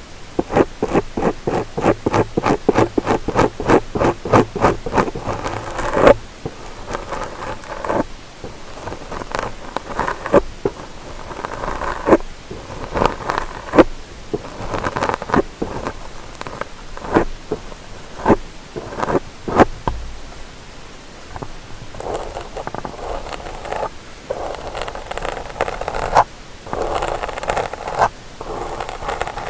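Ear-cleaning ASMR tool scraping and rubbing against the ear of a binaural stereo microphone: rapid, even scratching strokes, about four or five a second, for the first six seconds, then slower scattered scrapes and clicks, with softer rubbing near the end.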